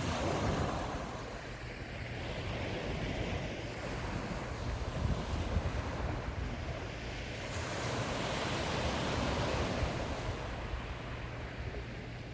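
Sea waves washing onto the shore, the surf swelling and ebbing in slow surges a few seconds apart, with wind buffeting the microphone.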